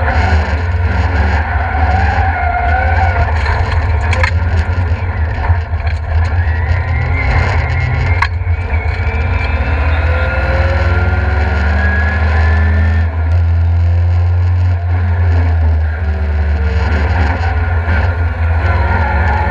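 Ford Escort Mk2 track car heard from inside the cabin, its engine running hard with revs rising and falling through the corners. Tyres squeal in a slide through the middle of the stretch.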